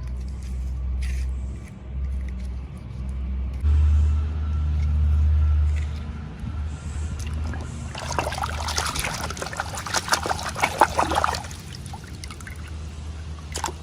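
Unboxing handling noise: a low rumble of hands and objects moving near the microphone, then, about eight seconds in, some three seconds of dense crackling rustle from packaging being handled.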